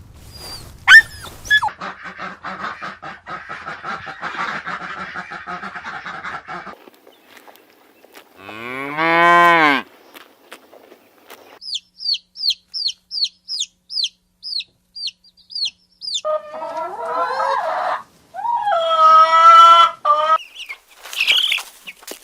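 A series of different animal calls, one after another. About nine seconds in a cow gives one long moo that rises and falls. Then comes a run of about a dozen quick, high, falling bird chirps, followed by loud repeated calls from a goose or other fowl.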